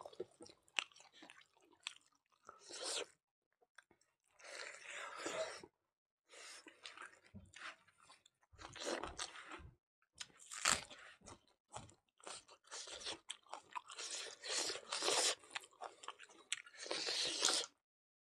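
Chewing and crunching as mutton curry and rice are eaten by hand, in irregular bouts with short pauses, including bites of a raw red onion.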